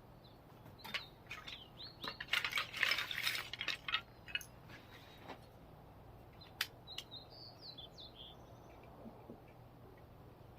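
Light metallic clinks and clatter of small metal parts and tools being handled, thickest in a burst a couple of seconds in, with a few short high chirps in between.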